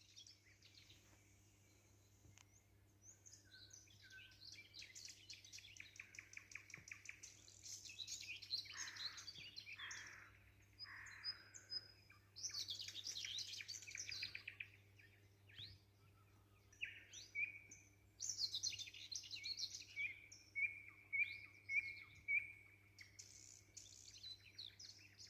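Several songbirds singing together: overlapping chirps and rapid trills come and go throughout. Near the end, one bird repeats a short whistled note about twice a second. A faint steady low hum runs underneath.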